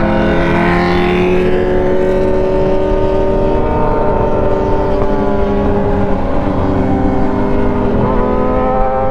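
Yamaha R6's inline-four engine running at a steady cruise, its pitch rising gently, with a change in pitch about eight seconds in, over a low rumble of wind noise.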